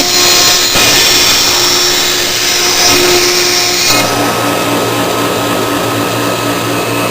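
CNC router running, its spindle motor giving a steady machine whine and hiss; about four seconds in the sound shifts to a lower, steadier hum with several held tones.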